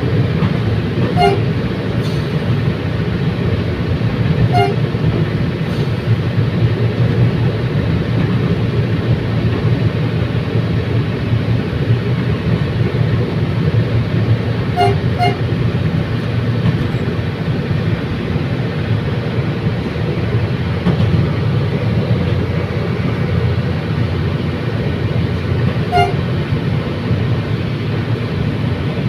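Commuter train running steadily along the rails, a continuous low rumble. A few brief ringing pings cut through at irregular intervals, two of them close together about halfway through.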